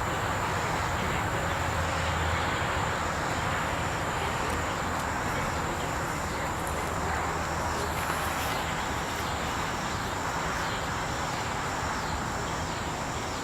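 Steady outdoor insect chorus with a constant high trill and a faint regular pulsing, over an even rushing background.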